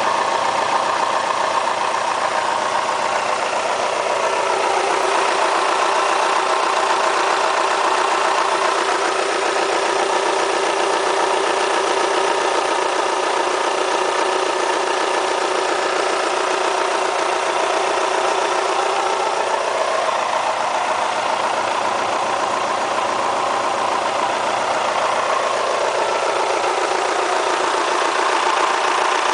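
Kia Spectra petrol engine idling steadily with a diesel-like noise, which the owner cannot explain.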